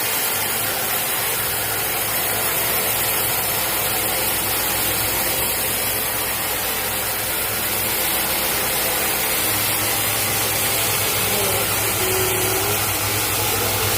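Sawmill machinery with an engine running steadily at an even pitch, without any change in load.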